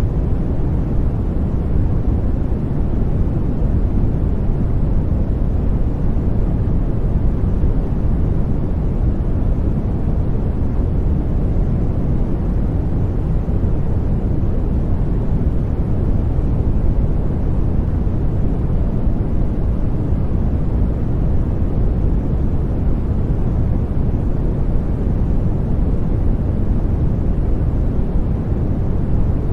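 Steady white noise for baby sleep: an even, unbroken hiss weighted toward the low end, so it sounds deep and rumbling rather than bright.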